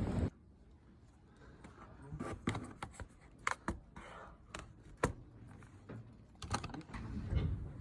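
Typing on a computer keyboard: irregular key clicks of varying strength, a few keystrokes louder than the rest. A loud rumbling sound cuts off abruptly at the very start.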